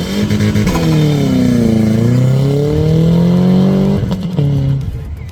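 2025 Subaru WRX's 2.4-litre turbocharged flat-four driven hard. The revs rise, dip about two seconds in, climb again, then fall away sharply about four seconds in.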